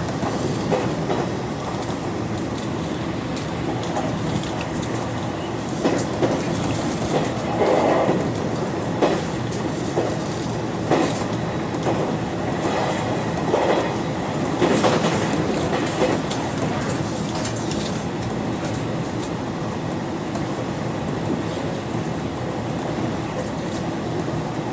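Aoimori Railway 703 series electric train running at speed, heard from inside the front car: steady rumble of wheels on rail, with a run of sharp clacks over rail joints in the middle.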